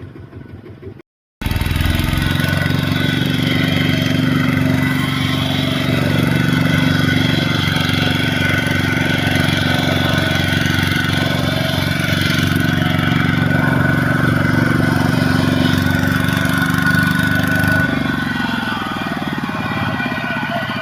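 A vehicle engine running steadily. It starts abruptly just over a second in and shifts slightly near the end.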